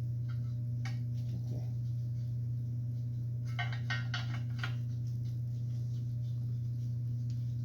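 A few light metallic clicks and rattles of chop-saw parts being handled and fitted together, most of them about halfway through, over a steady low hum.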